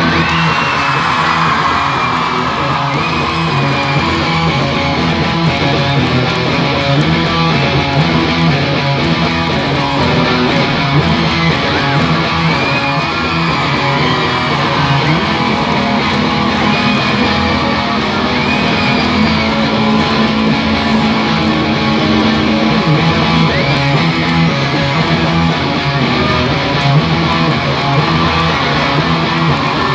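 Live band playing an instrumental passage: electric guitars strumming over bass guitar in a steady rhythm.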